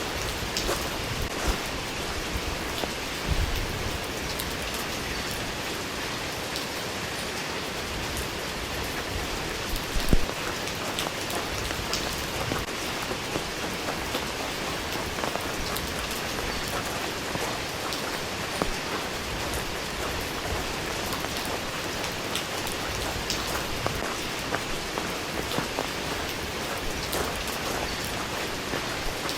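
Steady rain falling and pattering on surfaces, with many single drops ticking through the hiss. A louder low thud comes about three seconds in and again about ten seconds in.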